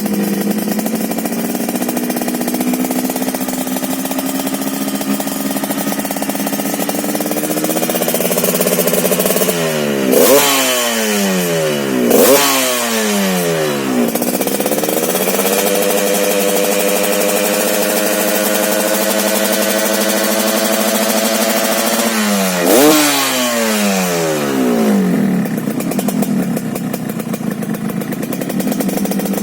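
Yamaha RX-King two-stroke single-cylinder engine running through an ADS aftermarket muffler. It idles, gets quick throttle blips about ten, twelve and twenty-three seconds in, and holds a steady higher rev in between before settling back to idle.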